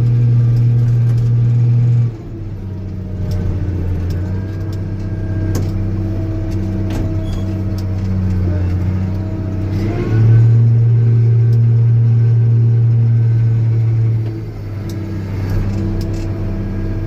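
Old Steiger tractor's diesel engine running steadily. Its note comes through louder and deeper for the first two seconds and again from about ten to fourteen seconds in, easing back in between.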